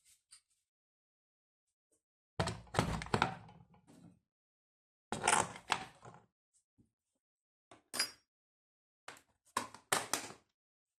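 Bursts of knocking and clattering, as of hard parts being handled and knocked together, in four separate clusters with short quiet gaps between.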